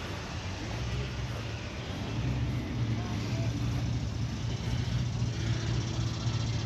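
A motor vehicle engine running steadily, growing louder about two seconds in.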